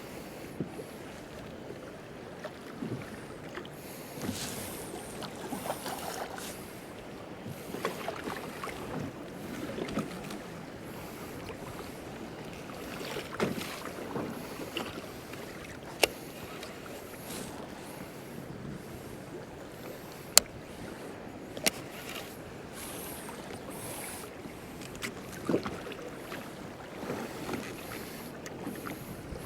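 Water lapping and splashing against the hull of a drifting fishing kayak, with a few sharp clicks or knocks scattered through it; the loudest comes about twenty seconds in.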